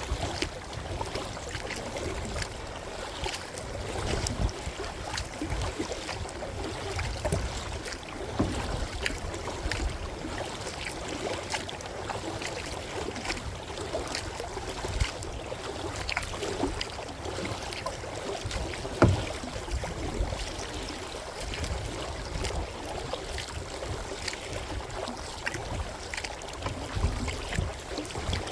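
Kayak being paddled: the paddle blades dip and splash, water trickles off them, and wind rumbles low on the microphone. One sharp knock comes about two-thirds of the way through.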